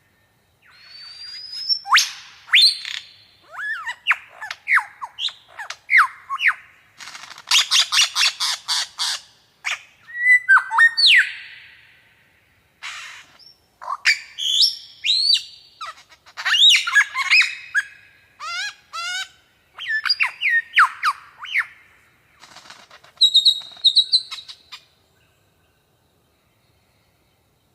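Birds calling: a busy, varied run of squawks, whistled notes that rise and fall, and quick trills, which stops about 25 seconds in.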